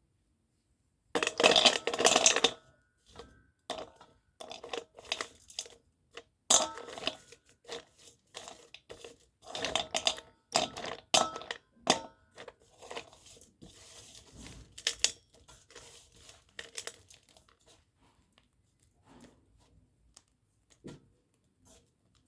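Dry cubical slate pencils being handled, giving irregular gritty crackles and sharp snaps. The loudest burst comes about a second in, and the sounds thin out to faint scratches in the last few seconds.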